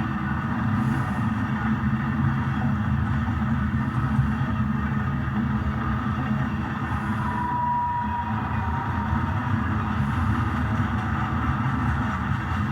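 Diesel locomotive engine sound from an HO scale GP35 model running steadily, with a brief faint higher tone about halfway through.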